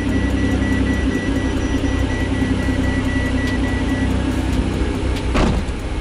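Ferrari 612's V12 engine running steadily at low revs, heard from inside the cabin as the car moves slowly. A brief sweeping sound comes about five seconds in.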